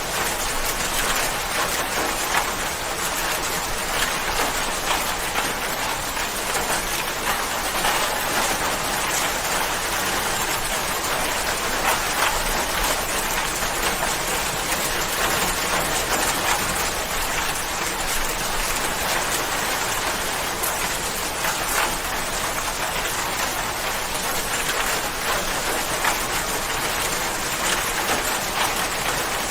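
Steady rain falling on a surface, a dense even patter of many fine drops.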